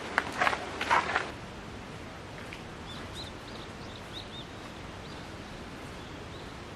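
A few brief rustles or crunches in the first second, then steady outdoor background noise with a series of short, faint bird chirps.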